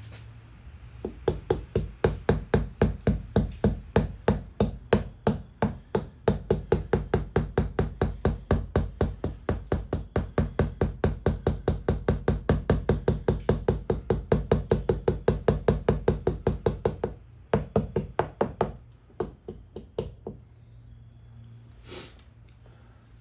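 Rapid, even knocking on a car windshield's glass from the inside, about four or five taps a second for around sixteen seconds, then a few slower taps before it stops. The glass is tapped to work air bubbles out of freshly injected crack-repair resin.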